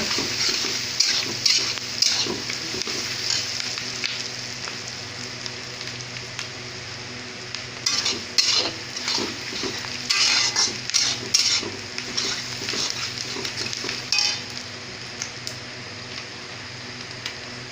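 Onions and green chillies with spice powder sizzling in hot oil in a pan while a spatula stirs them, its strokes scraping against the pan in bunches about a second in, again from about eight to eleven seconds in, and near fourteen seconds.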